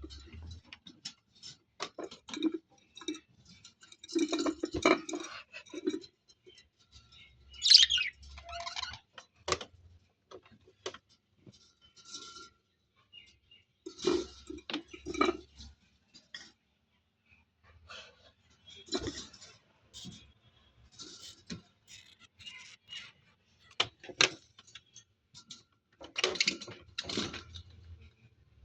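Small pet birds chirping now and then among many scattered light clicks and metallic clinks.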